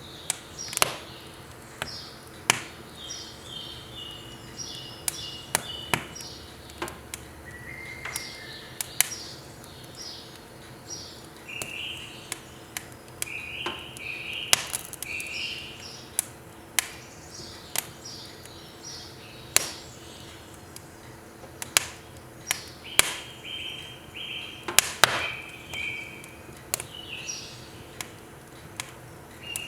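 Firewood burning in a wood stove, crackling with sharp irregular snaps and pops, while birds chirp in short repeated phrases.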